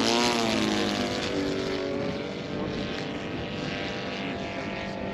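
Laser 200 in-line twin glow engine of a radio-controlled model warplane running in flight, its pitch swooping up and down in the first second as the plane passes, then holding steady. The pilot says the engine's tuning is all out.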